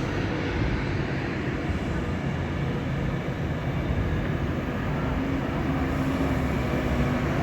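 GB Railfreight Class 66 diesel locomotive, with its two-stroke V12 engine, passing with a freight train: a steady engine drone over the even rumble of wheels on the rails.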